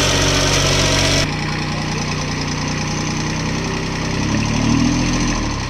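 Tractor diesel engine running steadily. A little over a second in, the sound abruptly turns duller and slightly quieter. Near the end the engine revs up and back down.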